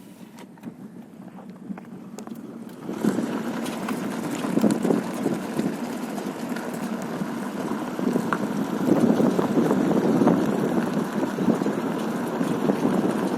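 Lexus IS250 on the move, with road and tyre noise swelling about three seconds in and light rattling from the front brake caliper. The caliper's guide pin has worn a hole in its bracket.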